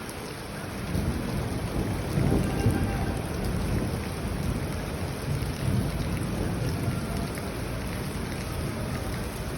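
Steady summer rain falling, with a deep rumble of thunder that swells about a second in, is loudest a couple of seconds later, then rolls on more quietly.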